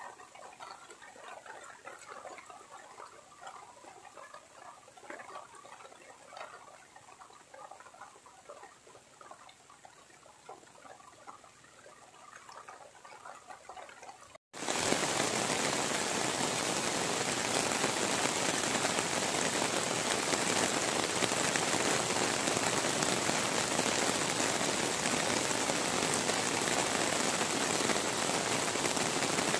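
Rain. For about the first half it is fairly quiet, with scattered drops pattering. Then it cuts abruptly to heavy rain, a loud steady hiss that lasts to the end.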